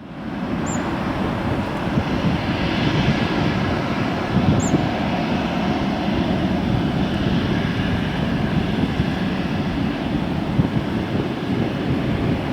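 Boeing 737-8-200 MAX jet airliner's CFM LEAP-1B turbofan engines running, a steady, loud, deep rumble and rush of jet noise that holds even throughout.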